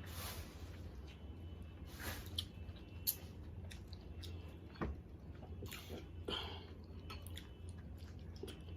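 Someone eating seafood close to the microphone: chewing, with scattered small irregular clicks and a few brief noisy smears. A steady low hum runs underneath.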